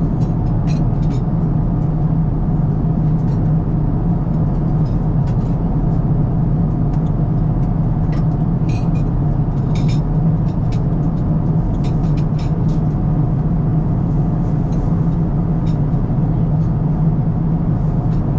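Steady cabin noise of an Airbus A350-1000 airliner in flight: an even, unbroken rush of airflow and engine noise with a strong low hum, and faint small clicks now and then.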